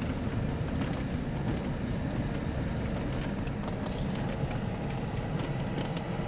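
A Chevy car being driven, heard from inside the cabin: steady engine and road rumble with frequent small clicks and rattles, with the engine still running on a test drive over bumps.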